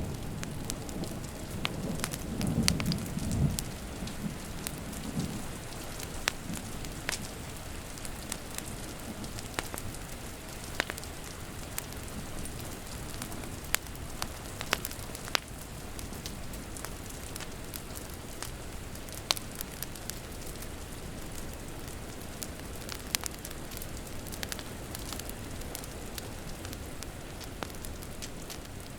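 Steady rain with a wood fire crackling, sharp pops scattered throughout. A low rumble of thunder fades away in the first few seconds.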